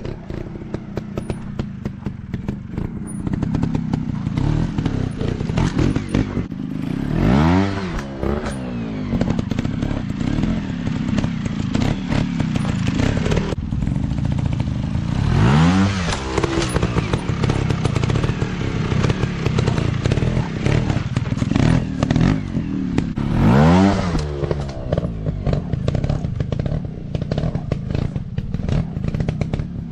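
Dirt bike engines running with a fast, uneven popping beat; three times, about eight seconds apart, the engine pitch swings up and back down as a bike revs or goes by.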